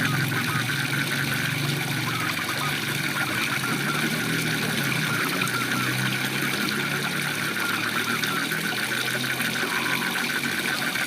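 Waterfall running steadily, with frogs calling in rapid, repeated pulses over the rush of water.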